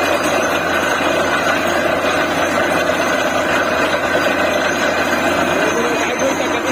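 Diesel engine of a DTH borewell drilling rig running steadily and loud, with no change in pace.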